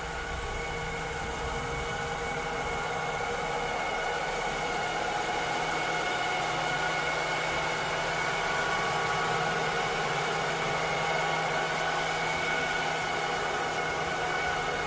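Cleaning robot running: a steady motor whir with several constant whining tones over a hiss, growing a little louder over the first few seconds.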